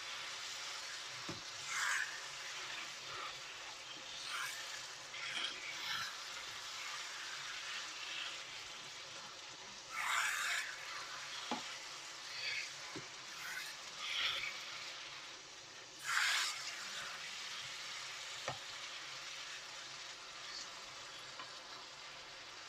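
Chicken jalfrezi curry sizzling steadily in a pan, while a utensil stirs it and scrapes the pan now and then, with a few light knocks.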